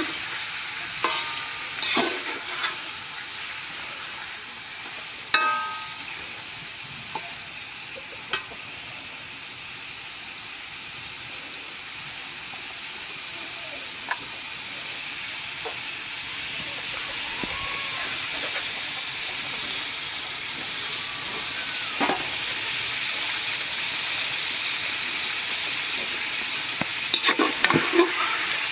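Food sizzling in hot oil in a cooking pot while being stirred, the sizzle growing louder from about halfway. A stirring spoon knocks and scrapes against the pot several times, most often near the start and near the end.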